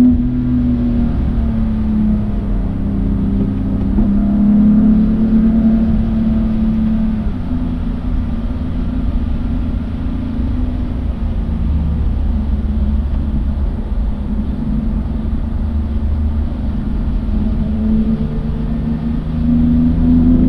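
Car engine heard from on board, its revs rising and falling with the throttle. Revs hold lower and steadier through the middle and climb again near the end.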